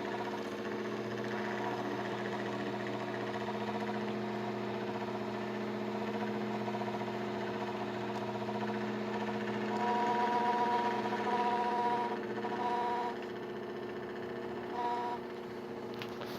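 Indoor evaporator unit of a Springer Midea 9000 BTU split air conditioner running with a steady hum. A higher whine comes and goes in the second half, the noise of a faulty evaporator fan motor.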